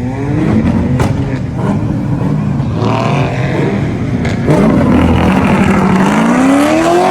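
Loud car engines revving hard, the pitch climbing in repeated pulls with more than one engine overlapping, and a sharp crack about a second in.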